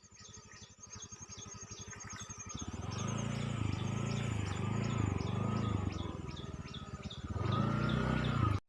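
An even series of short, high chirps, about three a second. From about three seconds in, a low hum joins them, swelling and falling every half second or so, and both cut off suddenly just before the end.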